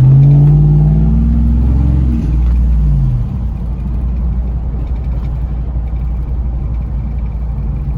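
Car engine accelerating hard, heard from inside the cabin: a loud engine note that climbs and then drops away about two to three seconds in, settling into a steady engine and road rumble.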